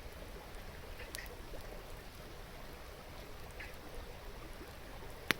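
Steady rushing of a babbling river, with a single sharp pop from the burning campfire wood near the end.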